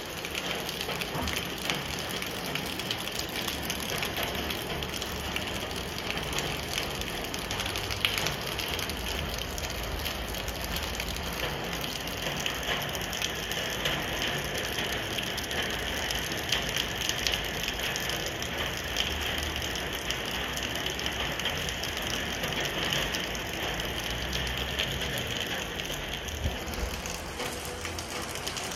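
Steady rainfall, a dense patter of drops striking roofs and surfaces, with no let-up.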